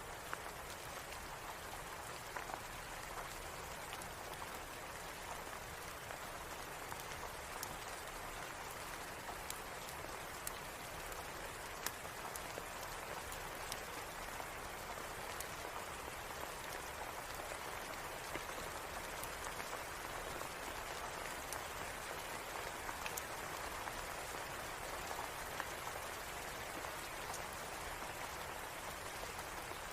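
Steady rain falling in an even hiss, with scattered sharp clicks and ticks throughout.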